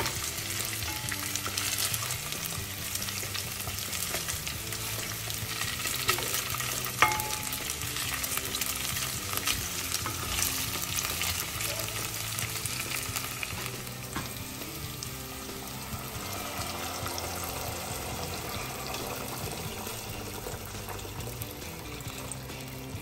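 Ground-pork meatballs and chopped red onion sizzling gently in oil in a nonstick pot while a spatula stirs and scrapes them around, with a couple of sharper knocks about six and seven seconds in. The meatballs are only lightly seared, to set them so the ground meat holds together.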